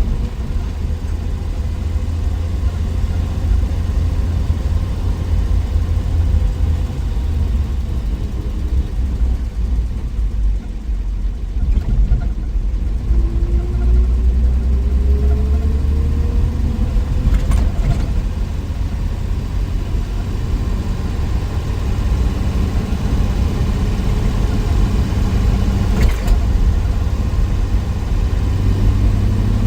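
1963 Willys Wagon with the Tornado 230 overhead-cam inline-six, driving on the road: steady engine and drivetrain rumble. A whine rises in pitch about halfway through as it picks up speed, and there are two brief knocks later on.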